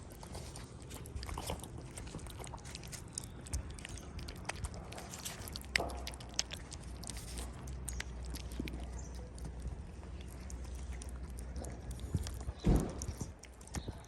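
Cat eating, with many small clicks and crunches as it chews, and one louder knock near the end.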